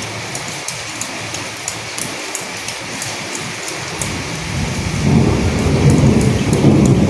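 Steady rain with scattered drop ticks. About four seconds in, a low rumble of thunder builds and grows louder toward the end.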